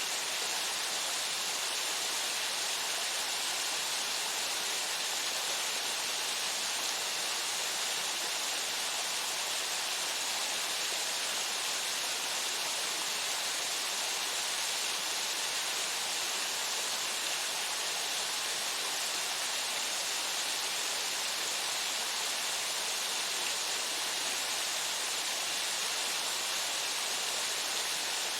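Waterfall splashing steadily: the Odaki fall of the Fudo Waterfall pouring onto rock and into its pool, an even hiss with most of its sound in the upper range and no changes.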